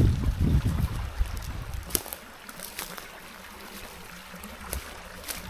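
Wind buffeting the microphone as a low rumble for about the first two seconds, then a steady stream running with a few light clicks.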